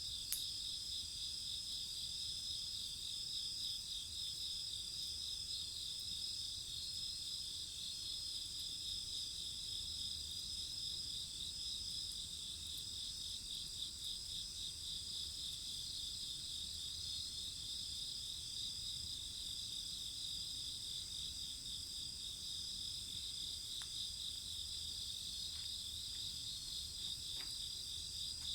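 Steady chorus of crickets and other insects trilling, a rapid pulsing high trill over several continuous high tones, with a few faint pops from the bonfire near the end.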